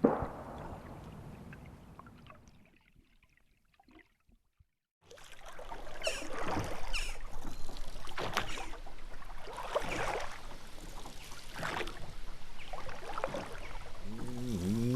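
A last note of music fades out into near silence. Then water splashes in slow, regular strokes about every one and a half to two seconds. Near the end a low voice starts humming.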